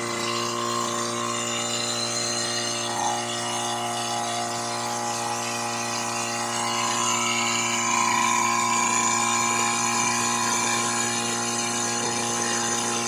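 Portable fire-pump engine running steadily at constant speed, a continuous droning hum, slightly louder in the second half.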